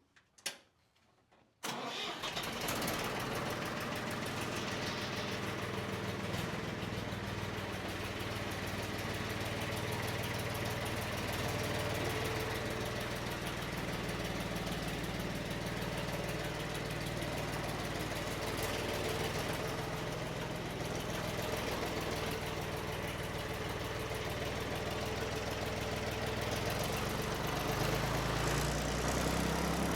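An engine running steadily. It comes in suddenly about two seconds in and gets a little louder near the end.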